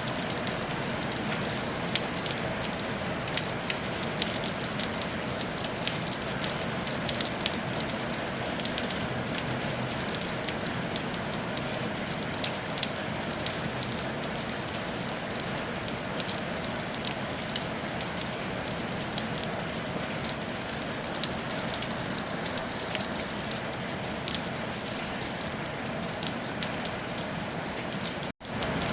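Steady rain on a tile roof: a dense, even hiss dotted with many sharp drop ticks. The sound cuts out for a split second near the end.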